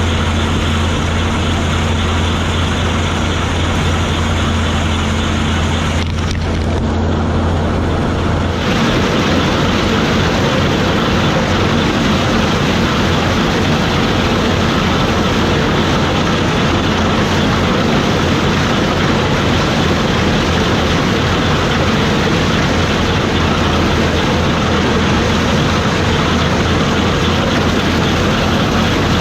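Gleaner combine running steadily. About eight seconds in, the low hum gives way to a denser, noisier roar that continues unchanged.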